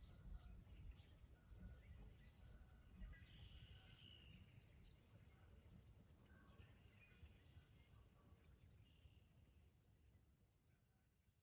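Faint birdsong: one bird repeats a short, high, down-slurred call about every three seconds among scattered fainter chirps, over a low rumble, fading near the end.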